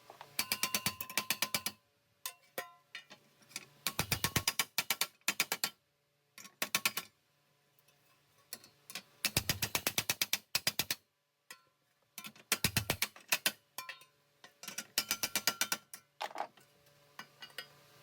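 Rapid mechanical clicking in repeated bursts of one to two seconds each, about seven bursts with short pauses between them.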